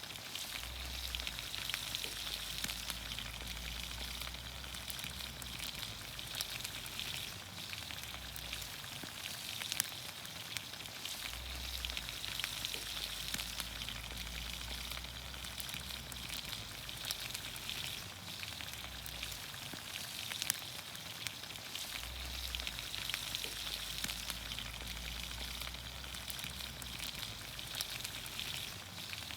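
Vegetables in olive oil sizzling in a pan over a campfire: a steady frying hiss dotted with fine crackles and pops. A low rumble comes and goes about every ten seconds.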